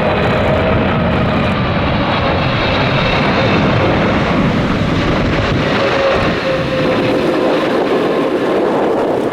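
Jet engines of a Boeing 777-300 on final approach passing close overhead: a loud, steady roar with whining tones that slowly fall in pitch as it goes by.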